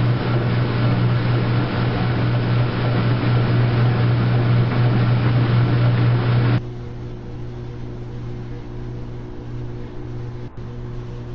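Washing machines running with a steady motor hum. A louder hum with a rushing noise, like a pump moving water, cuts off suddenly about six and a half seconds in, leaving the quieter machine hum.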